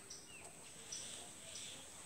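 Faint, sparse bird chirps, a few short ones near the start, over a quiet background with a steady high-pitched hiss.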